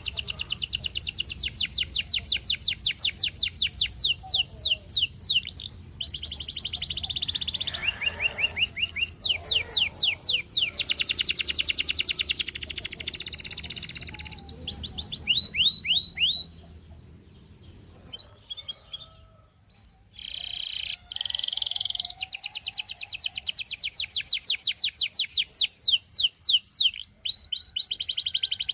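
Russian singing canary singing fast rolling trills of rapidly repeated high notes, phrase after phrase, with a pause of a few seconds a little past the middle before the song resumes.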